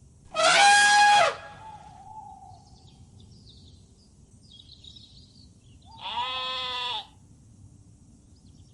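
Two bleating calls from a farm animal: a loud, high one lasting about a second near the start, and a quieter, lower one about six seconds in.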